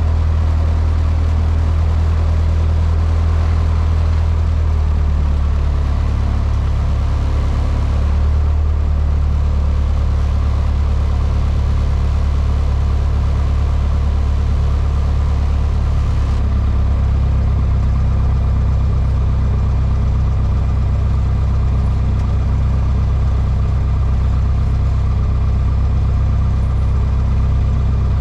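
Cessna 152's Lycoming four-cylinder engine and propeller running steadily, heard from inside the cockpit as a loud, even drone. Its note shifts slightly a few times, about 5, 8 and 16 seconds in.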